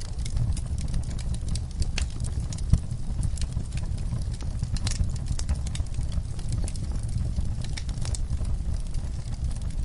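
Wood fire burning in a fireplace: a steady low rumble of the flames with irregular sharp crackles and pops, one louder pop just under three seconds in.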